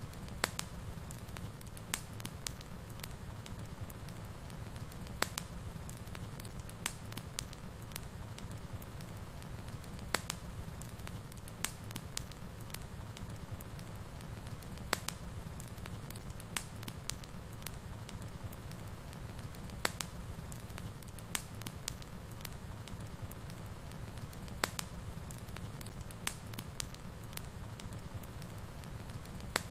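Wood fire burning in a fireplace: a steady low rumble with irregular sharp crackles and pops, a few louder snaps scattered throughout.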